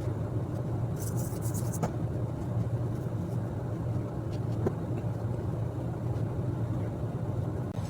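A steady low mechanical hum, with a few light clicks and a short hiss about a second in.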